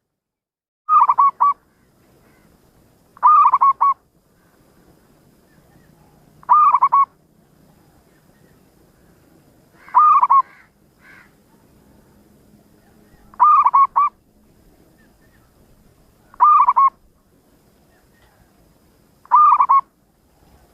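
Zebra dove (perkutut) cooing: a short phrase of a few quick, rolling coos, repeated seven times about every three seconds.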